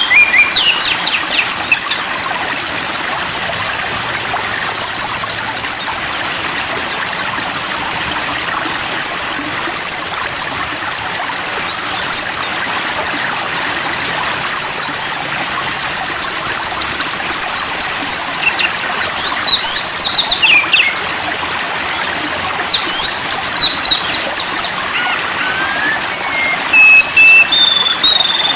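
Small songbirds chirping and trilling in high, rapid runs that come and go every few seconds, over the steady trickle of running water.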